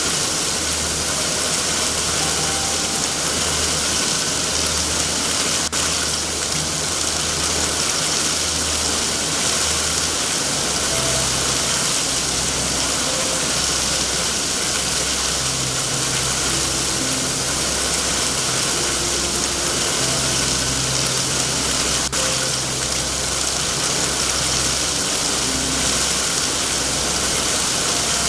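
Steady heavy rain, a dense even hiss, with a low rumble underneath. Two faint clicks stand out, about six seconds in and again about three-quarters of the way through.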